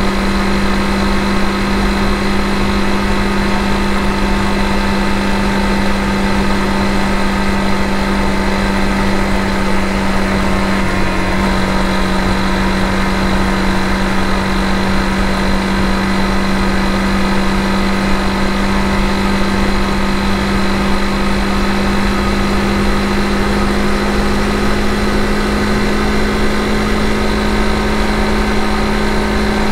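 Honda CRF250 Rally's single-cylinder engine running at a steady cruising speed, holding an almost constant pitch, under a continuous rush of wind and road noise.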